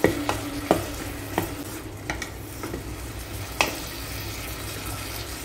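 Wooden spatula stirring diced chicken fillet, garlic and onion frying in oil in a rice cooker pot: a steady sizzle with a few light knocks of the spatula against the pot.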